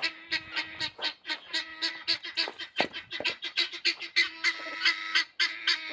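Guinea fowl sounding their alarm call: a fast, harsh run of repeated notes, about five or six a second, going on without a break.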